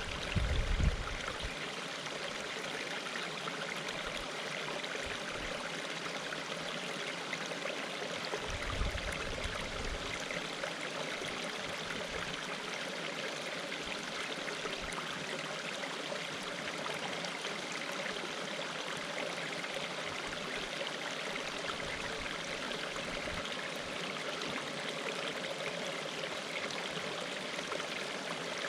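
Water rushing steadily over a small waterfall in an even, unbroken hiss, with brief low rumbles in the first second and again about nine seconds in.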